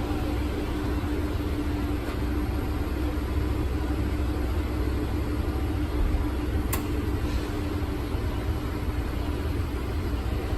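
Steady low rumble of a vehicle engine running, with a constant hum over it. One sharp click about seven seconds in.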